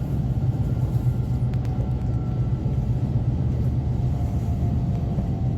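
E5 series Shinkansen running, heard from inside the passenger cabin: a steady low rumble with a faint whine above it.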